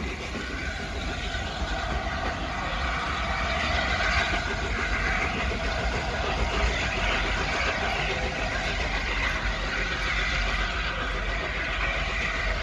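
Train running through a railway station: a steady rumble of wheels on rail that grows a little louder over the first few seconds and then holds.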